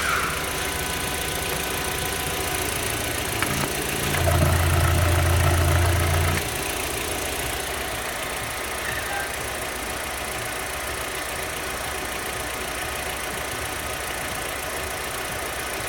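Audi 1.8-litre 20-valve ADR inline-four petrol engine idling steadily. About four seconds in, a louder low hum joins for roughly two seconds and then cuts off sharply.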